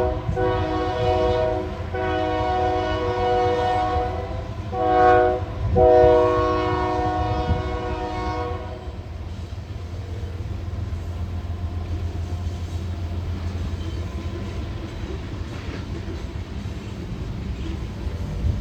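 Train horn sounding a series of blasts, long ones with two short, louder ones in the middle, then stopping about nine seconds in. The low rumble of the train rolling by runs underneath and carries on after the horn stops.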